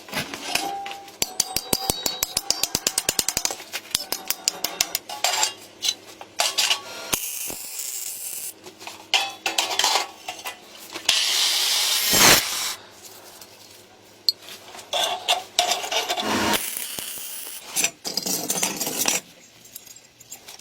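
Hand tools working on metal: a fast run of sharp clicks in the first few seconds, then scattered clinks and knocks and a few longer scraping or rasping stretches.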